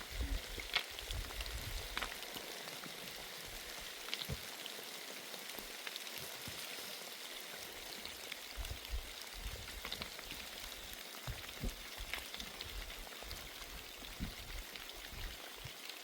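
Steady rain falling, an even hiss with scattered sharper drop ticks and a few dull low thumps.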